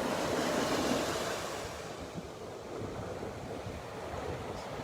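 Ocean surf washing on the beach, louder for the first second and a half and then easing off, with breeze rumbling on the microphone.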